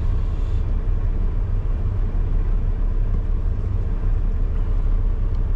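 Heavy diesel engine of a Mack truck running steadily with a low, even drone.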